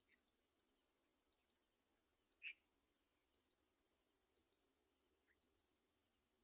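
Near silence with faint, sharp, high clicks coming in pairs about once a second, one of them a little louder about halfway through.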